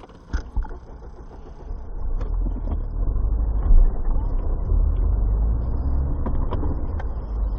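Low rumble of a car driving, louder from about two seconds in, with scattered clicks and one brief loud knock a little past the middle.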